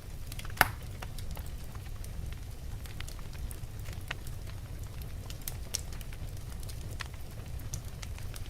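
Wood fire crackling, with scattered sharp pops and clicks over a steady low rumble; one loud pop comes just over half a second in.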